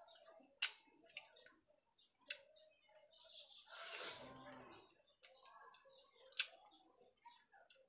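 Faint birds chirping in the background. Several sharp clicks are scattered through it, and one louder rustling noise lasts about a second, about four seconds in.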